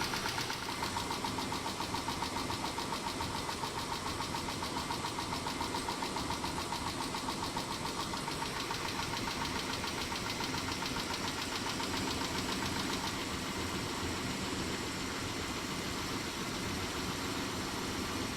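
Mitsubishi 6G72 V6 engine idling with a fast, even ticking that is typical of tapping hydraulic lifters, though the owner wonders whether it is the lifters or a worn engine. The ticking grows fainter about thirteen seconds in.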